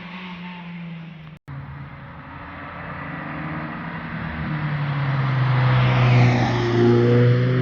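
A car's engine and exhaust approaching and passing by, growing steadily louder from the middle and peaking about six seconds in. The sound cuts out for an instant about one and a half seconds in.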